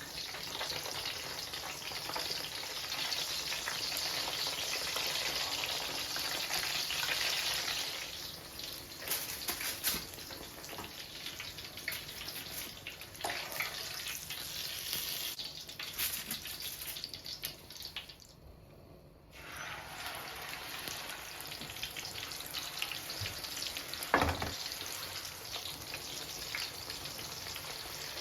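Kitchen cooking sounds: a steady hiss of food frying or water running, with scattered clicks and clinks of utensils. The hiss drops away briefly about two thirds of the way through, and a single louder knock comes later.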